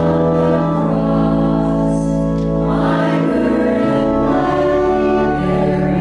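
A group of voices singing a hymn together to organ accompaniment, with long held organ chords underneath.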